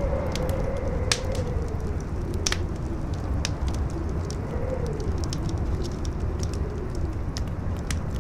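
Campfire crackling with irregular sharp pops, over a low rumble of strong wind that howls in a wavering tone, rising and falling.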